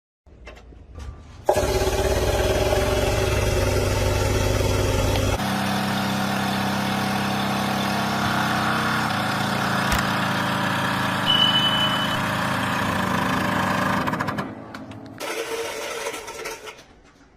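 A truck engine running steadily. It starts abruptly about a second and a half in, its sound changes abruptly about five seconds in, and it cuts off sharply near the end.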